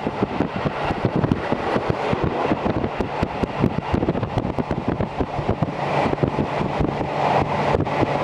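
JR Hokkaido Series 711 electric train running, heard through an open window: a steady rumble of wheels on rail and rushing air, with many small clicks and knocks throughout. A higher rushing noise grows louder about six seconds in.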